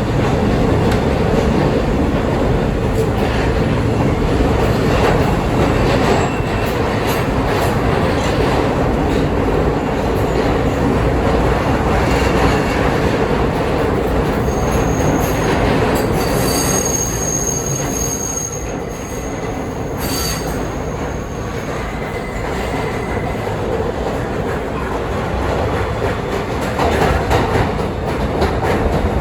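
R160B Siemens subway train running along the track with steady rail clatter. About halfway through, a high-pitched wheel squeal sets in for several seconds, then fades.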